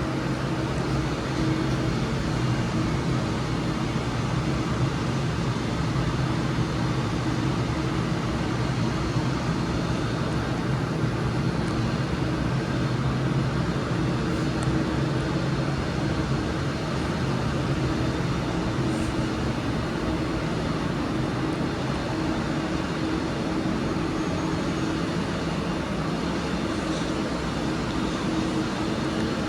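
Class 397 electric train standing at the platform, giving a steady, unchanging hum with a low drone from its onboard equipment.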